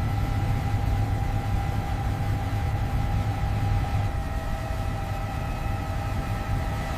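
A vehicle engine running steadily: a constant low rumble with a steady whine over it.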